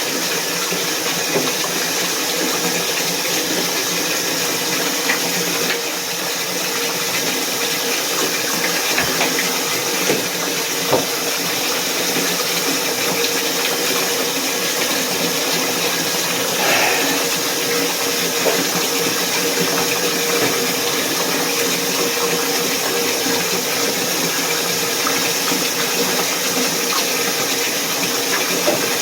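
Water running steadily, a constant rush with a faint steady hum underneath.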